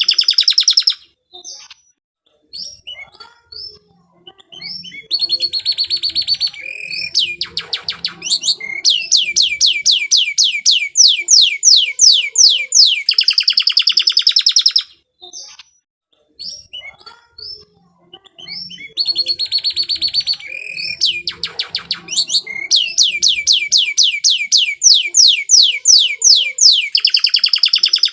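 Domestic canary singing a long, varied song: high, fast trills of rapidly repeated notes in phrases of several seconds, broken twice by quieter spells of scattered chirps.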